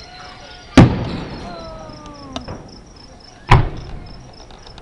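Two fireworks shells bursting about a mile away, each a sharp boom with a trailing rumble, about a second in and again near the middle, with a smaller pop between them. Crickets chirp steadily underneath.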